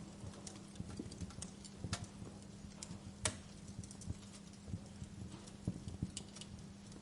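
Wood fire in a fireplace crackling: irregular small snaps and pops, with one sharper, louder pop a little past three seconds in, over a steady low hum.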